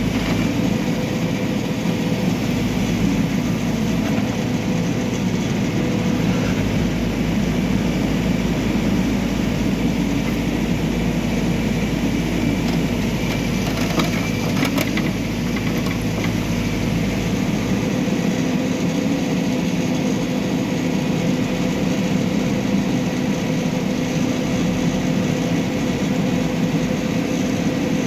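Backhoe loader's diesel engine running steadily. A deep low rumble drops away about two-thirds of the way through, while the engine's steady drone carries on.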